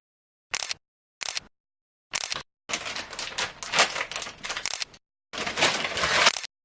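Rapid clicking like typing, in three short bursts and then two longer runs, with dead silence between them.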